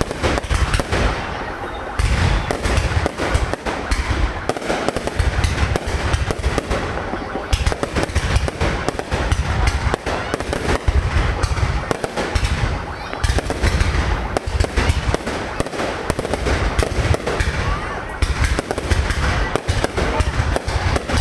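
Fireworks display: a continuous, dense barrage of shells bursting and crackling, with deep booms and rapid pops overlapping throughout.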